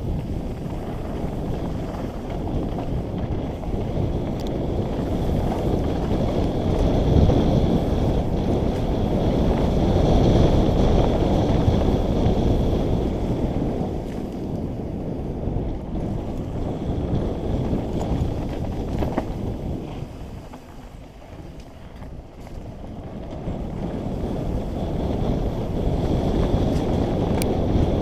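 Wind rushing over the microphone of a mountain bike descending a dirt trail, mixed with tyre and rattle noise from the rough ground. The rushing swells and eases, dipping for a few seconds about three-quarters of the way through.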